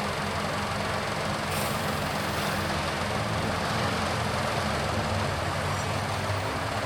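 Car on the move: steady engine and road noise.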